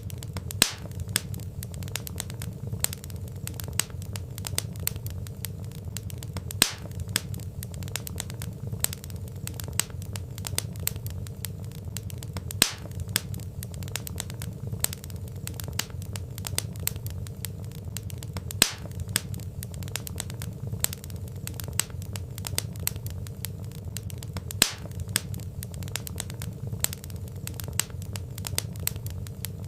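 Wood fire crackling: burning logs give a dense run of small snaps and pops over a steady low rumble of flame, with a sharper, louder pop about every six seconds.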